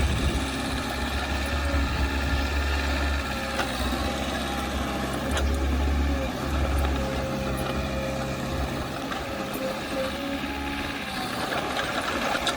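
Diesel engine of heavy earthmoving machinery running steadily, with a deep rumble that eases off about two-thirds of the way through while a steady higher whine carries on.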